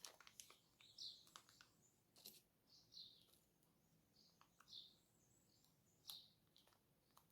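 Near silence, with a few faint light clicks of small parts being handled and scattered faint high chirps, like a small bird's.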